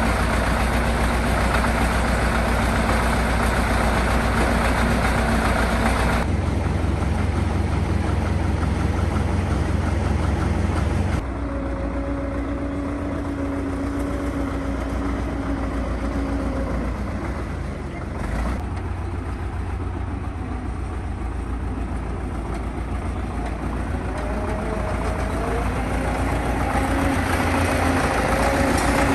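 Tractor engine running steadily, its sound changing abruptly a few times.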